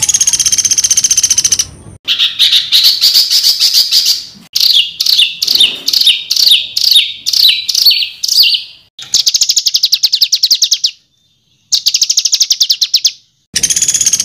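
Songbird song in separate phrases broken by sudden silences. A rapid trill is followed by a run of about eight quick falling whistled notes, then two fast, buzzy high trills.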